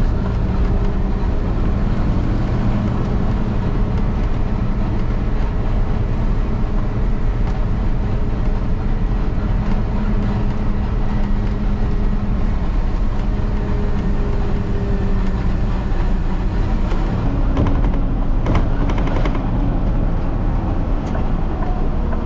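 Peterbilt truck's diesel engine running steadily on the road, a continuous low drone whose pitch shifts slightly now and then.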